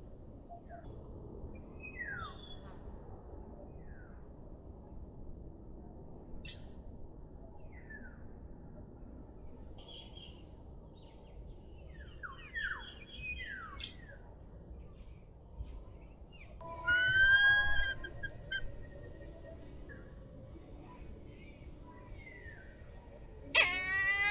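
Small birds chirping, with many short falling calls throughout over a steady high-pitched whine. Twice, about two-thirds through and near the end, a louder drawn-out animal call with a wavering pitch.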